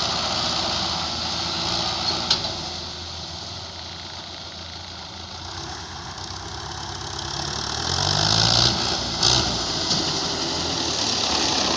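Heavy machine's diesel engine running steadily, dropping back for a few seconds and then building up again about two-thirds of the way through. A sharp metallic clank a couple of seconds in and two short knocks near the end stand out over it.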